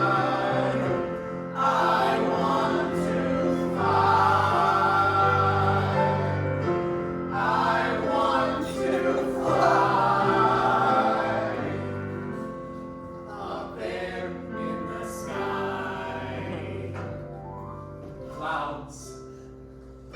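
Several voices singing long held notes in choir-like harmony, growing steadily quieter over the second half.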